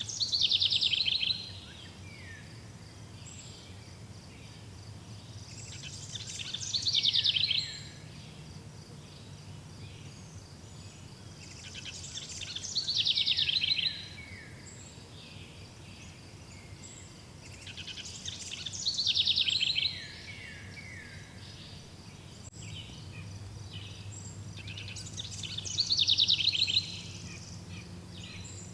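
A songbird repeating the same song five times, about every six seconds. Each song is a two-second run of quick notes that grows louder and falls in pitch, ending in a few lower slurred notes. Behind it an insect keeps up a steady, fast high-pitched pulsing.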